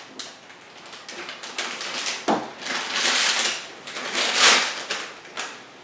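Plastic packaging crinkling and rustling as small kit parts are handled, in irregular bursts, with a knock a little over two seconds in and the loudest rustle about four and a half seconds in.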